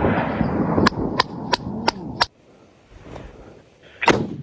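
Rumbling tail of a rifle shot fading, with five sharp cracks in quick succession about a third of a second apart. It cuts off to near silence, then another single gunshot comes near the end.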